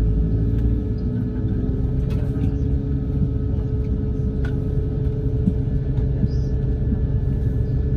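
Steady low rumble and hum of an Airbus A220-100 on the ground, heard inside the passenger cabin, with a held mid-pitched tone over it. The deepest part of the rumble eases about a second in.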